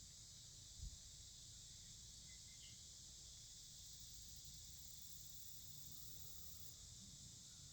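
Near silence: a faint steady high-pitched hiss, with one soft low thump about a second in.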